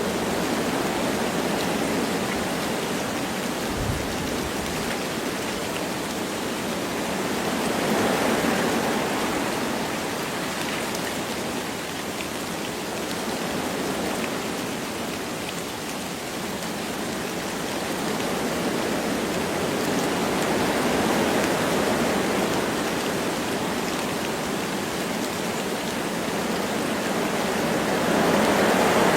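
Wind blowing through forest trees with light rain falling: a steady rushing that swells and eases every several seconds.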